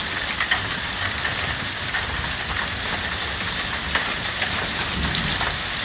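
Heavy rain falling steadily, with many sharp ticks of drops striking. It sounds to the man filming like a little hail in it, or awful heavy raindrops.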